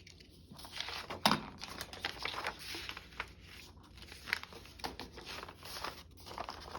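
Paper being handled on a craft table: rustling and crinkling with scattered light taps and clicks, one sharper tap about a second in.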